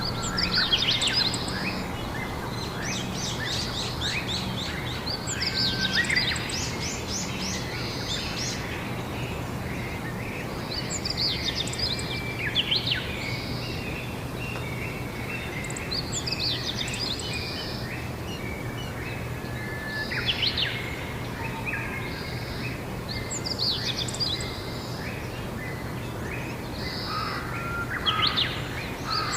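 Songbirds singing short, chirpy phrases, one every four to five seconds, over a steady low background hum.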